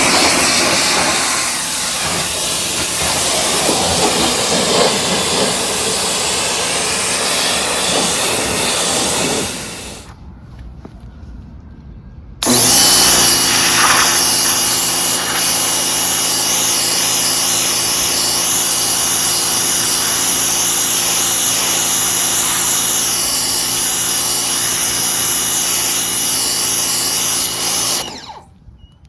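Ryobi 1800 PSI electric pressure washer running with its water jet spraying. It stops for a couple of seconds about ten seconds in, then starts again with a steady motor hum and hiss and cuts off a second before the end.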